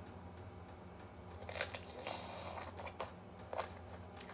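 Crisp crunching and chewing of raw green mango, with a few short clicks and a brief crunchy stretch about two seconds in.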